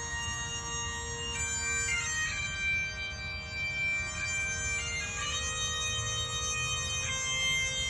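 Bagpipes playing a slow melody of long held notes over a steady drone.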